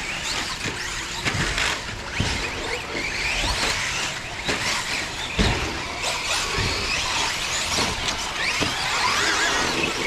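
Several electric RC off-road cars racing on a dirt track, their motors whining up and down in pitch as they accelerate and brake. A few short thumps come through, such as landings off jumps.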